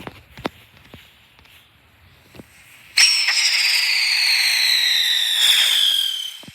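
A whistling firework goes off about three seconds in: a loud, shrill whistle over a hissing rush that slides steadily lower in pitch for about three and a half seconds, then cuts out.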